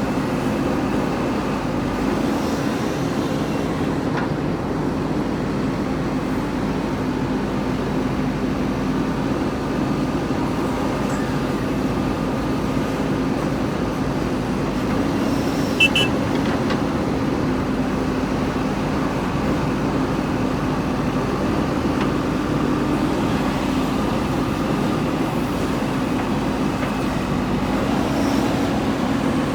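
JCB 3DX backhoe loader's diesel engine running steadily, with one short sharp click or clank about halfway through.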